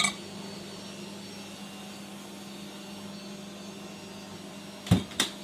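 Toshiba ER674 microwave oven's cooling fan running with the door open, a steady motor hum. Two sharp clicks near the end.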